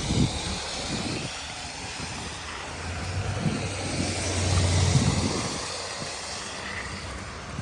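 A motor vehicle passing on a snowy, slushy street: steady tyre hiss with a low engine hum that swells to its loudest about five seconds in, then fades.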